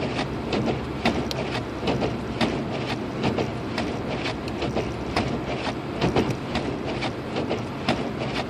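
Inside the cabin of a 2006 Lexus IS250 AWD driving on a snow-covered road: a steady low hum of engine and tyres under a constant, irregular crackle of small clicks.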